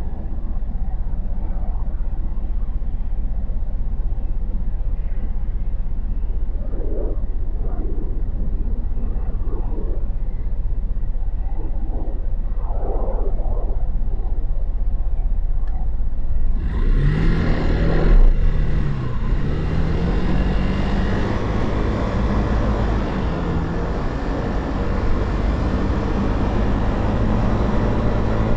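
Motorcycle engine heard from the rider's position during a city ride: a low steady rumble, then from about 17 seconds in the engine pitch climbs and drops several times as it accelerates through the gears, with rushing wind noise.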